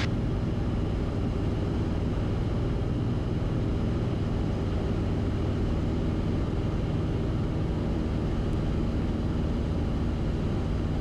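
Cessna 172RG's four-cylinder Lycoming engine and constant-speed propeller running steadily at approach power on final, with the landing gear down.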